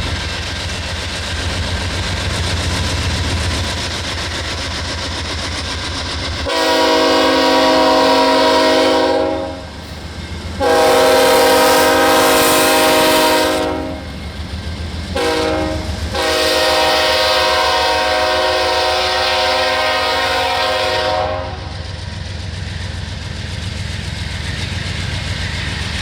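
Locomotive air horn sounding the grade-crossing signal: two long blasts, a short one and a final long one, each a chord of several tones. Under it runs a steady low rumble.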